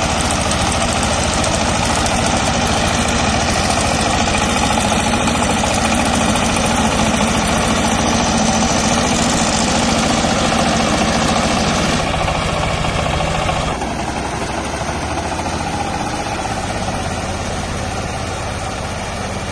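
YTO 240P mini tractor's 24 hp engine running steadily while driving a fodder chopper. Some of the sound fades about two-thirds of the way through, and the overall level drops a little soon after.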